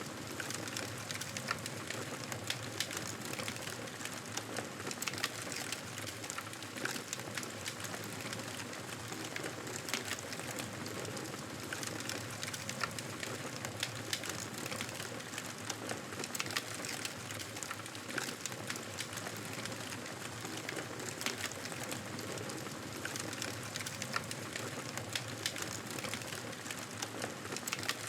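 Campfire crackling: a steady hiss of burning wood with frequent small, sharp pops and snaps scattered throughout.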